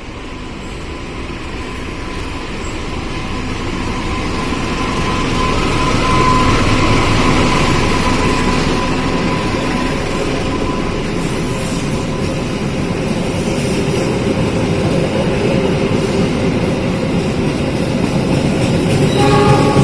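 A train running past at close range: steady rumble and rail noise that builds over the first several seconds and then holds. Its horn sounds again near the end.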